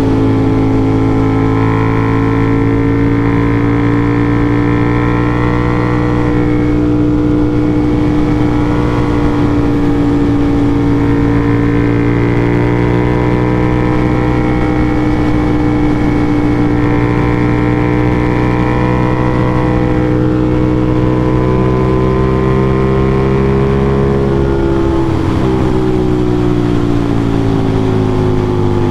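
Aprilia RS660's parallel-twin engine through an SC-Project CRT exhaust, held at a steady high pitch under way. The pitch eases down over the last few seconds as the bike slows.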